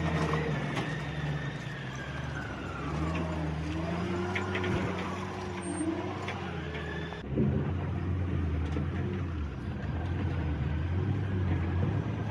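Heavy machinery engine running, its pitch rising and falling as it works, with an abrupt change about seven seconds in.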